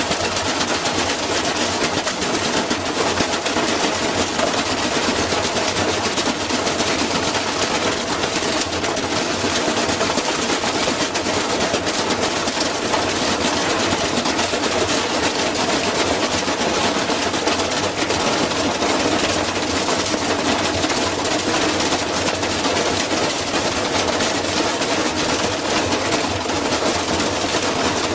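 Washing machine drum spinning with a brick inside: a loud, continuous clatter of rapid, closely packed bangs as the brick is thrown against the drum.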